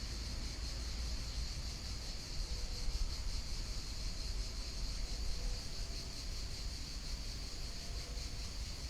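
Steady outdoor ambience of a calm river's flowing water, with a continuous high insect hum over it and a low rumble underneath.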